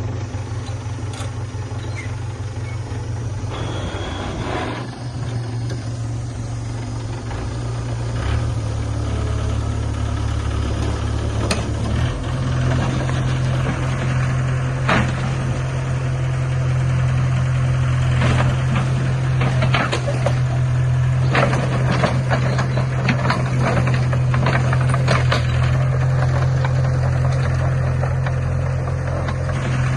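Heavy diesel engine of earthmoving machinery running, its pitch shifting a couple of times, with scattered sharp knocks from the machine at work.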